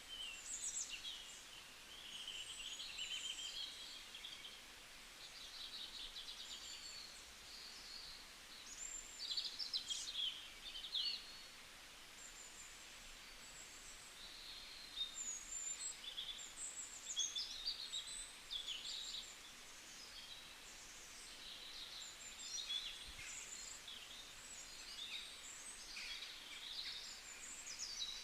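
Several songbirds singing and chirping, with overlapping quick trills and whistled notes over a faint steady hiss.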